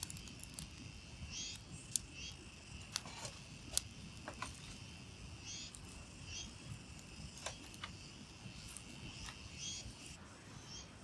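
Steady insect trilling, with short chirps recurring every second or few and a few sharp clicks.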